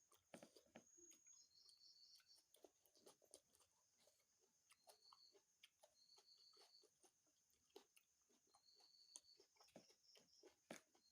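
Close-miked eating sounds: wet chewing and lip smacks of chicken curry with gravy and rice, in many short, irregular clicks.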